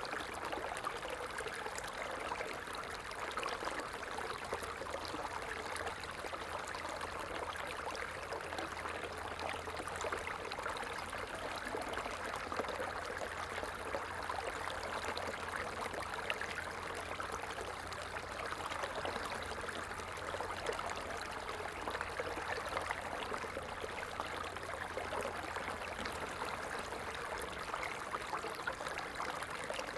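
Stream water flowing steadily, an even rush of running water.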